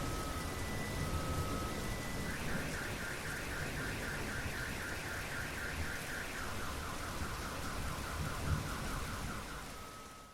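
Steady rain with a low rumble of thunder, while a car alarm cycles through its tones. It goes from short repeated beeps to a fast high warble about two seconds in, then drops to a lower warble near the middle. The sound fades out at the very end.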